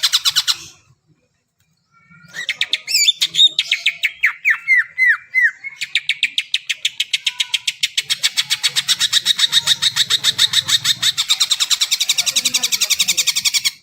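Cucak ijo (green leafbird) singing. A run of rapid high notes, a pause of about a second, then a varied phrase with several falling slurred whistles, then a long fast run of repeated notes, about eight a second, that cuts off suddenly at the end.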